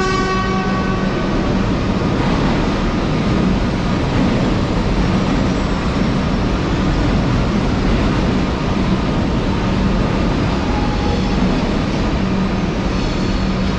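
Train running at a station platform: a loud, steady rumble with a constant low hum. A brief ringing tone fades away in the first second.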